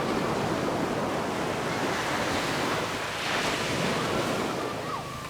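Ocean waves breaking and washing up a beach, with one surge swelling about three seconds in and the wash easing off near the end.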